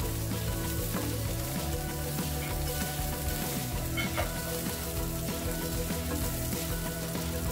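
Basmati vegetable fried rice sizzling steadily in a hot nonstick wok as it is stirred and tossed with a wooden spatula.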